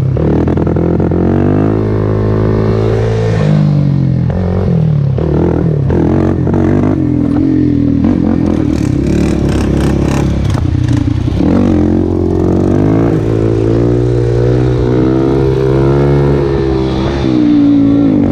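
Kawasaki KFX400 quad's single-cylinder four-stroke engine revving, its pitch falling and rising several times as the throttle opens and closes. A run of clattering comes about halfway through.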